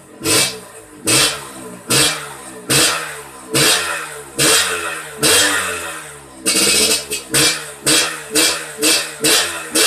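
Suzuki Satria two-stroke motorcycle engine revved in repeated quick throttle blips, about one a second and a little faster near the end, the pitch jumping up and falling back after each. It is running through a stock muffler that has been gutted empty.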